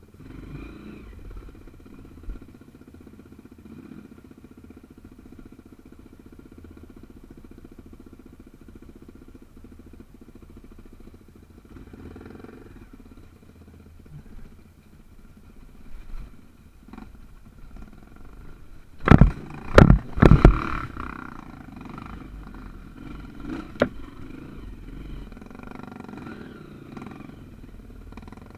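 Small trail motorcycle engine running steadily at low speed over a rough trail. About two-thirds of the way through come several loud, sharp knocks close together, and one more shortly after.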